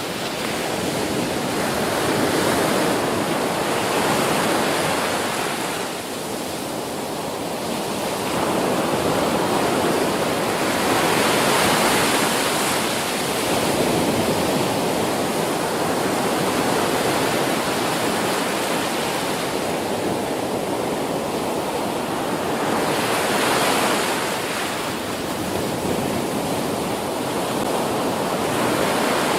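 Ocean surf breaking on a beach: a continuous rushing wash that swells and eases every several seconds as waves break and run out.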